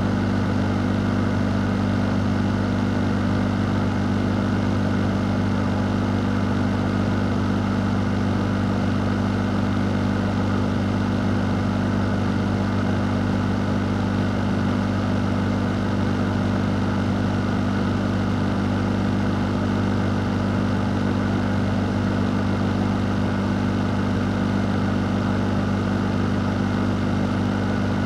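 Electric fan running steadily: a constant low hum with an even rush of moving air over it, unchanging throughout.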